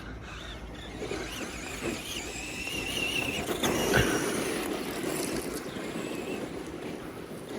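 Tamiya King Blackfoot electric RC monster truck running on the track: a high motor whine that comes and goes as it accelerates and backs off, over a rough noise, with a sharp knock about four seconds in.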